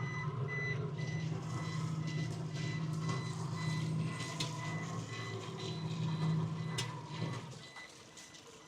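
Repeated electronic beeping at one steady high pitch, over a low steady engine hum that fades away a little past seven seconds in.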